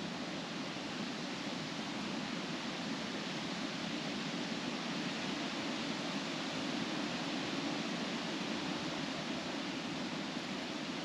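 Wind blowing through trees, the leaves rustling in a steady hiss that swells a little midway.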